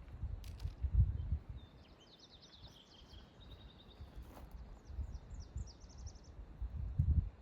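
A songbird singing two quick trills of repeated high chirping notes, over a low rumble that swells loudest near the start and again near the end, with a couple of sharp clicks.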